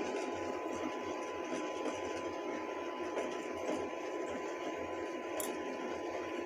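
Steady background hiss with a faint constant tone, and a small click about five seconds in: room tone with no clear sound from the dough being shaped by hand.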